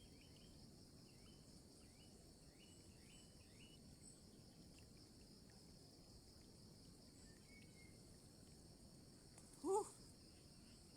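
Steady chorus of insects, crickets among them, with faint short chirps in the first couple of seconds. Near the end there is a single brief, louder call, rising slightly in pitch.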